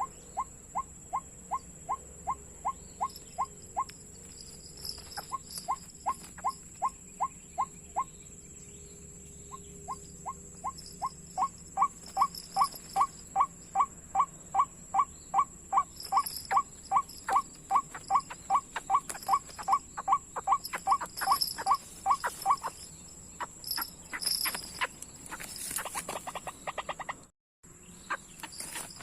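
White-breasted waterhen (ruak-ruak) calls: short, falling notes repeated about three to four times a second in three long series, the last one loudest. Rustling and clicking follow near the end, and the sound cuts out briefly.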